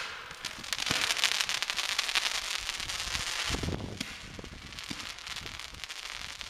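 Fireworks crackling: a dense rush of many small rapid pops, loudest for the first three seconds, then thinning to scattered crackles.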